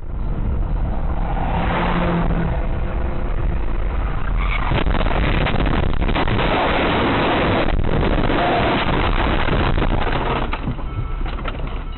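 Loud, steady vehicle rumble and road noise, with scattered sharp knocks from about four seconds in.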